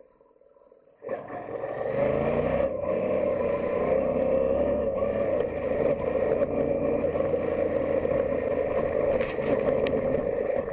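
Yamaha Ténéré 700's 689cc CP2 parallel-twin engine, almost silent for the first second, then picking up suddenly about a second in and rising in pitch as the bike accelerates, then running steadily. A few sharp ticks come near the end.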